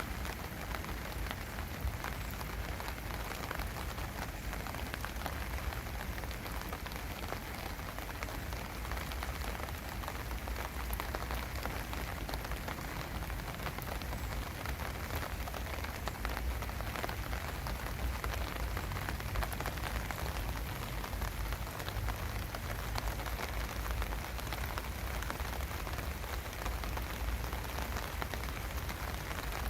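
Steady rain falling: an even hiss of countless small drop hits, with a constant low rumble underneath.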